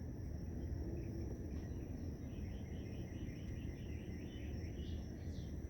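Night-time insect chorus: a steady high-pitched cricket or katydid drone over a constant low rumble, with a quick run of faint repeated chirps through the middle and a few short falling chirps near the end.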